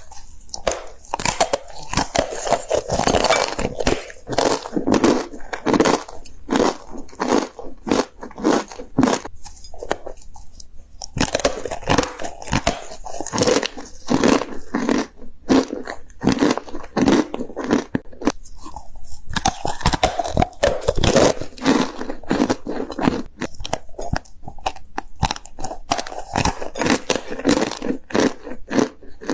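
Dry corn starch being bitten and chewed, a dense, continuous run of crisp crunches with no pauses longer than a moment.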